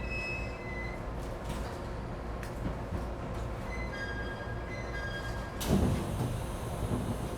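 Steady hum and noise of an ET127 series electric train standing at its terminal platform, heard from inside the car. Short faint high tones sound over it, and a sudden louder clatter comes about five and a half seconds in.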